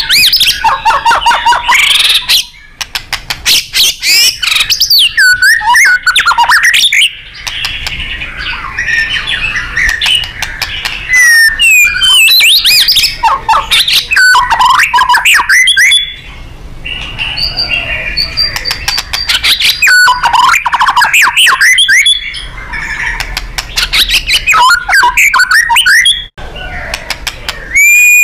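White-rumped shama (murai batu) singing loud and non-stop, in rapid-fire 'nembak' runs of whistled glides, trills and sharp clicks, broken by a few brief pauses.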